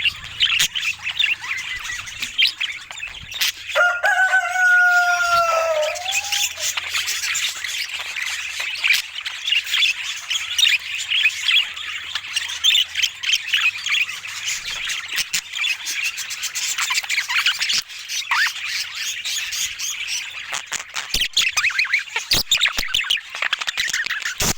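Budgerigars chattering and warbling, a dense run of fast chirps, with one longer, lower call about four seconds in that falls in pitch at its end. A few sharp clicks near the end.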